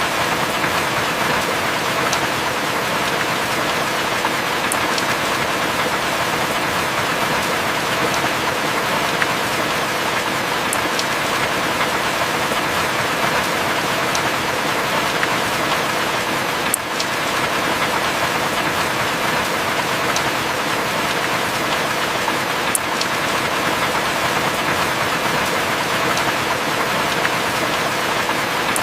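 Heavy rain falling steadily as an even hiss, with a few sharp drop ticks scattered through it.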